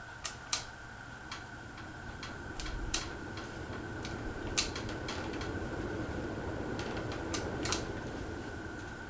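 Casablanca Panama 2 ceiling fan running, its motor hum building up from about two and a half seconds in over a steady high tone, with a dozen or so sharp clicks scattered through.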